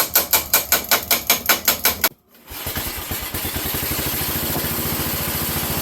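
A rapid, regular knocking about six times a second, which stops abruptly. Then the 8 hp Briggs & Stratton single-cylinder engine of a Wheel Horse garden tractor runs steadily, revived after sitting unused for years.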